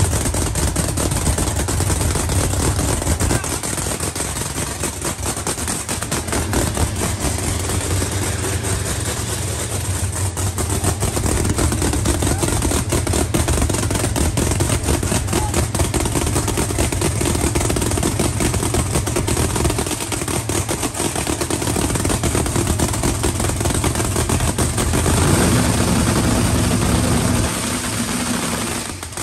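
Drag race car's engine idling loud and steady with a rapid, choppy firing beat, its note changing briefly near the end.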